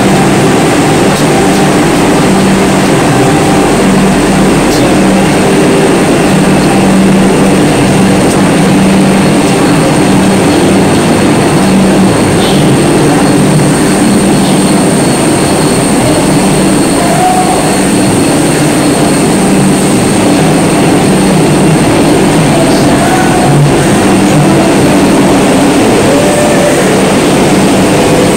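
Vande Bharat Express electric train standing at the platform with its equipment running: a loud, steady hum with a thin high whine above it.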